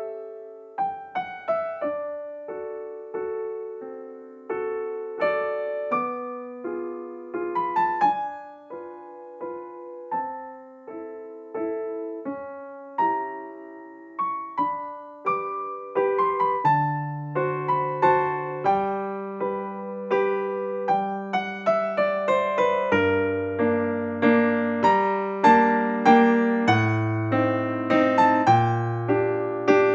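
Background piano music: a gentle melody of single struck notes, with bass notes joining about halfway through and the playing growing fuller.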